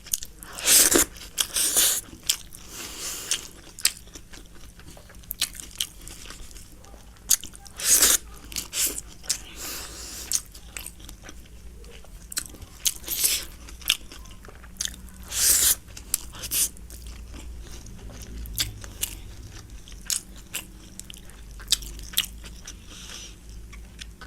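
Close-miked eating: chewing and biting mouthfuls of biryani, with irregular wet smacks, clicks and short crunches.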